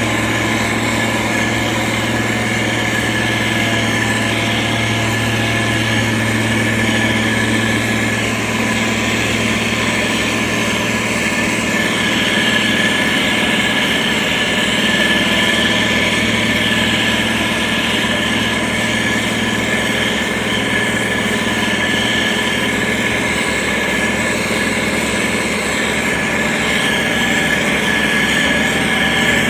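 Diesel engine of a SANY STG190C-8S motor grader running steadily, with an even low hum that holds its pitch.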